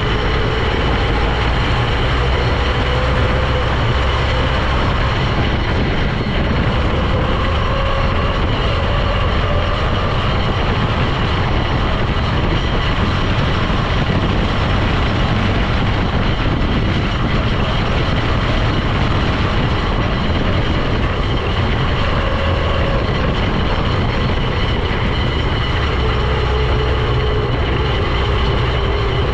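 Steady vehicle drone while driving: engine and road noise, with the engine's pitch drifting slowly up and down.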